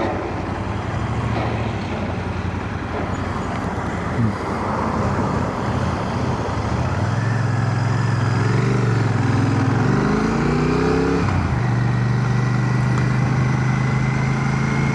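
Royal Enfield Shotgun 650's parallel-twin engine running on the move, heard from inside a full-face helmet over steady wind noise. About eight seconds in the engine note rises as the bike accelerates, drops sharply at a gear change a little after eleven seconds, then holds steady.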